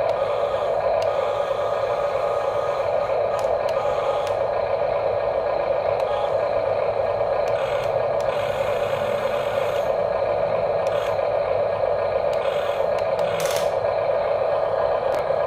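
Small electric motors and plastic-metal gearboxes of RC construction models running with a steady whine, with scattered clicks and scrapes.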